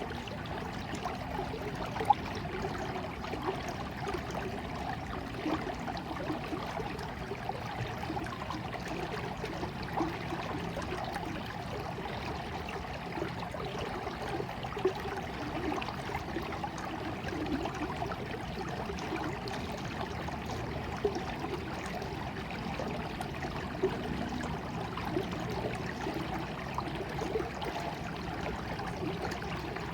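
Water running steadily, with a few brief louder splashes.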